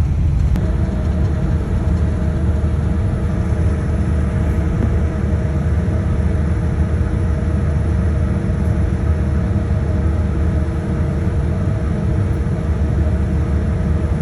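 Steady low rumble of an Airbus A380 airliner, with a faint steady hum running through it.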